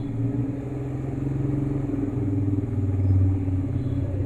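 Motorcycle engine running steadily under way, getting a little louder about three seconds in.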